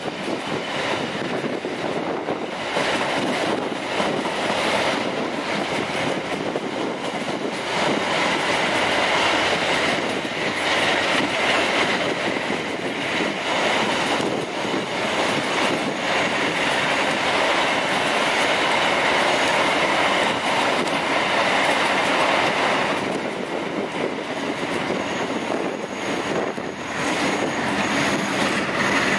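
Freight train wagons rolling steadily past on curved track, with clacking over rail joints and squealing wheels. A thin, high, steady squeal comes in near the end.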